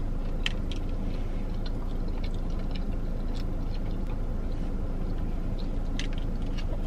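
A person chewing a mouthful of burger, with small scattered mouth clicks, over a steady low hum.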